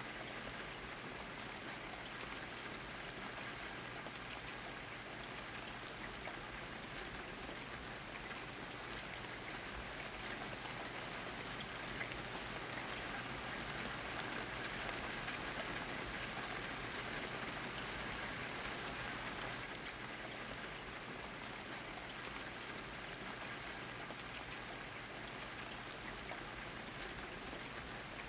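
Steady rainfall, with drops pattering on a surface.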